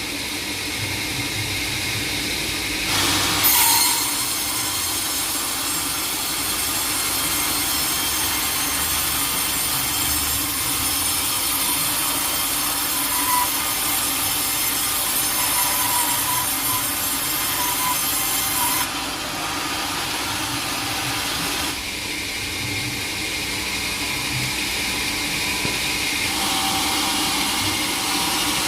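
Sawmill blade cutting through a teak log, a steady grinding saw noise. It becomes louder and harsher about three seconds in and eases again around nineteen seconds.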